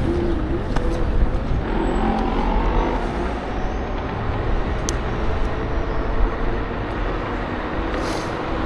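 Steady rumble of town road traffic heard from a moving electric scooter, with car engines nearby and wind on the microphone.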